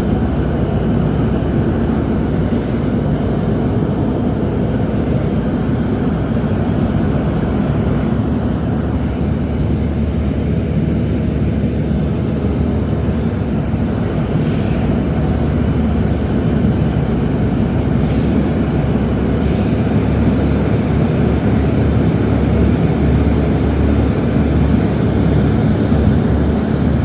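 Ship's engine running with a steady low drone, heard on board during a sea trial.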